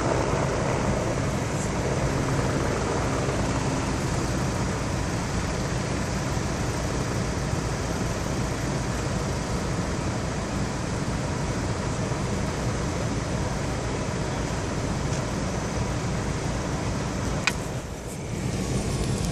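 Helicopter running close by on the highway, a steady low drone from its rotor and engine. A short sharp click comes near the end, with a brief drop in level just after it.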